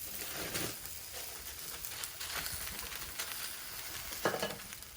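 Bologna slices sizzling in oil in a small cast iron pan, a steady frying hiss. A few short knocks sound over it, the loudest about four seconds in.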